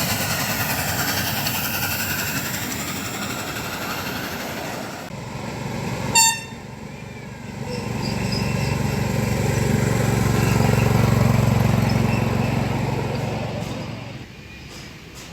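Miniature ride-on steam train running, with one short, loud whistle toot about six seconds in. After it, a low rumble builds up and dies away again.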